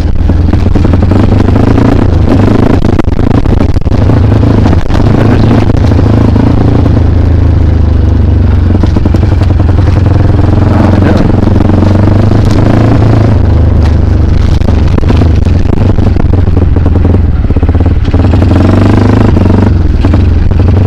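Single-cylinder trail motorcycle engine running steadily under load as the bike climbs rough ground, with scattered clatter from the bike.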